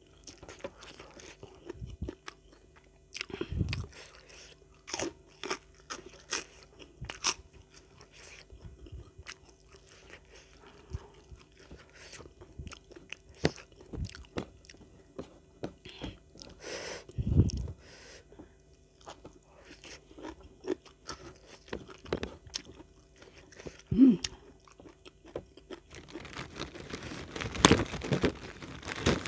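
Close-miked crisp crunching, biting and chewing of raw vegetables, young petai beans and leafy greens eaten with rice, in a string of sharp crunches that grows busiest and loudest near the end.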